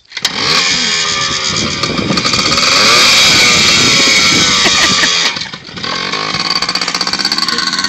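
Dirt bike engine running and revving, its pitch sliding up and down, loudest in the middle; it drops off briefly a little after five seconds in, then runs on.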